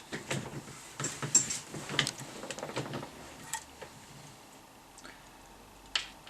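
Handling noises: a run of clicks, knocks and rattles over the first three seconds, then a single sharp click near the end.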